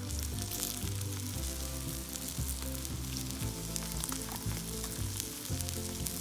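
Food frying with a steady sizzle and small pops on a hot iron griddle over a fire, with background music underneath.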